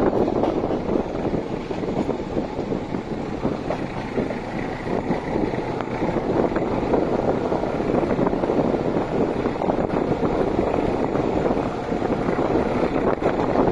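Passenger train hauled by an SU42 diesel locomotive running along the line, heard from aboard: a steady rumble of wheels on rails with frequent small clicks, mixed with wind noise.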